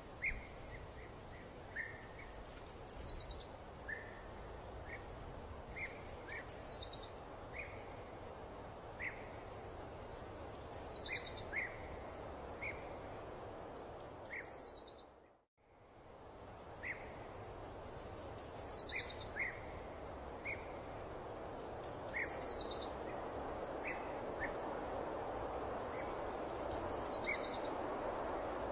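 Birdsong over a steady background hiss: one bird repeats a high, descending trill about every four seconds, with short chirps between. The sound fades out and back in about halfway through.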